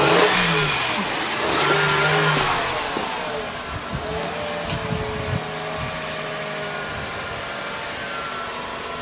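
2004 Honda Pilot's 3.5-litre V6 being revved. The engine note falls back from a rev in the first second, holds a steadier speed around two seconds in, then eases off and settles gradually lower.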